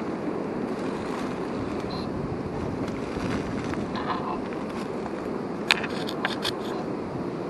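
Strong gusting wind rushing over the microphone, a steady noise. A few sharp clicks come a little over halfway through.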